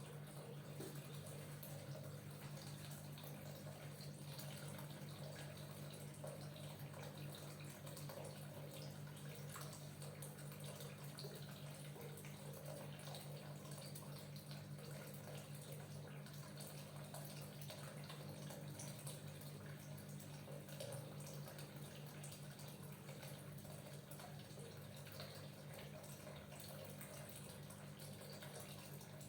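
Oiled hands working on bare skin with cutting (hacking) strokes, giving faint wet, slick contact sounds over a steady low hum.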